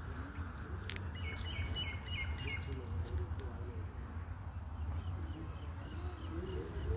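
A small bird chirping: a quick run of about five chirps a second or so in, then fainter scattered chirps, over a steady low rumble.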